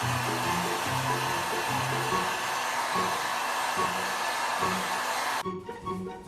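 Steady rushing air noise, like a hair dryer running, over background music with a plucked bass line. The rushing cuts off abruptly about five and a half seconds in, leaving the music.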